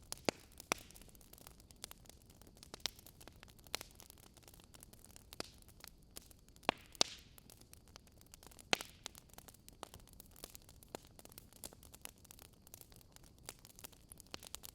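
Campfire crackling: irregular sharp pops and snaps of burning wood over a soft steady hiss, a few pops standing out louder, the loudest pair about seven seconds in.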